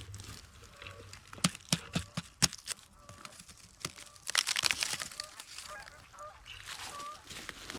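Waterfowl on a lake honking, a string of short calls clustered in the second half. There are sharp crunching clicks in between, loudest about two seconds in.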